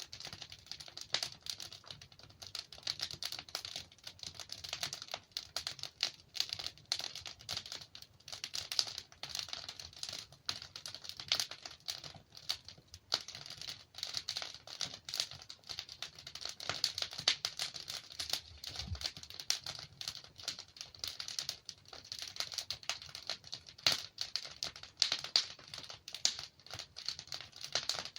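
Wood fire crackling and popping: a dense, irregular run of small snaps from burning logs, with one soft low thump a little past the middle.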